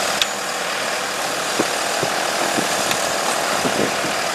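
A heavy vehicle's engine running steadily, with a couple of sharp clicks.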